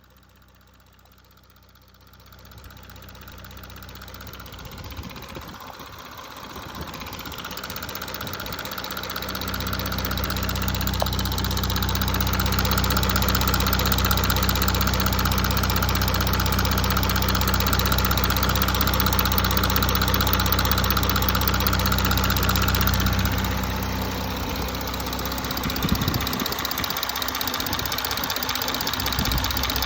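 2017 Audi A5 3.0 TDI V6 diesel idling with a ticking sound, which the owner suspects is a failing timing chain tensioner. The engine grows louder over the first ten seconds or so, then holds steady.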